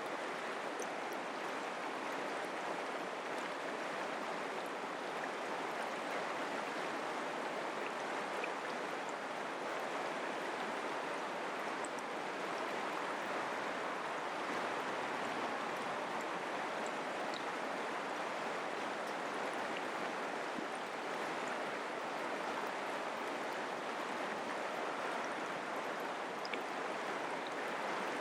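Mountain creek water flowing with a steady rushing sound.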